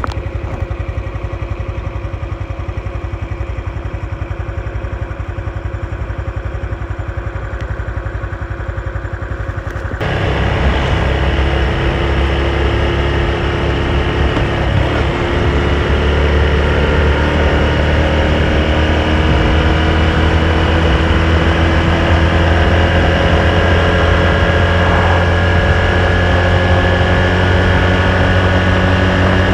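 Honda Super Cub's small single-cylinder four-stroke engine running on the move. About ten seconds in the sound turns suddenly louder and fuller, and the engine note then climbs slowly as the bike gathers speed.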